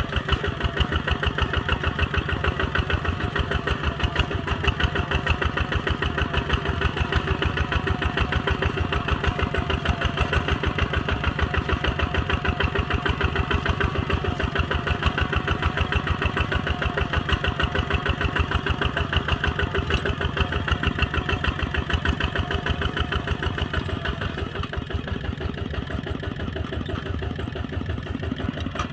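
Single-cylinder Kubota ZT 140 diesel engine of a two-wheel tractor running steadily, with a rapid, even beat. It grows slightly quieter near the end.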